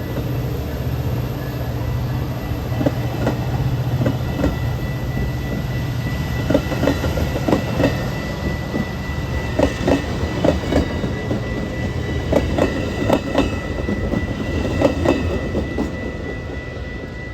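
A train rolling past: a steady low rumble, with the wheels clacking rhythmically over rail joints through most of the stretch, and a thin steady high tone over it.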